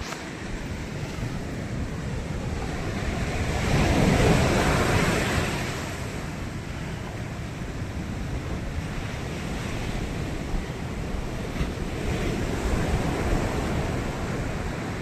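Sea waves breaking on the shore, with a steady wash of surf. One wave crashes loudest about four seconds in, and a smaller swell builds near the end.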